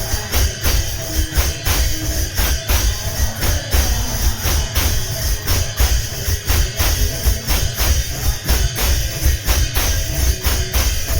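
Kirtan ensemble playing an instrumental passage: a fast, steady rhythm of jingling metal percussion over low drum beats, with a faint melody underneath and no singing.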